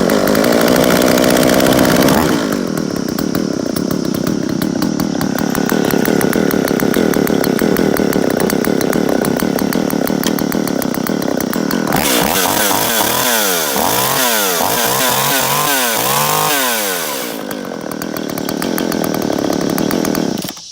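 Jonsereds 520SP two-stroke chainsaw running after a fresh start: a higher idle for the first couple of seconds, then settling to a steady idle. Between about 12 and 17 seconds it is revved up and down several times, then it drops back to idle and is switched off just before the end.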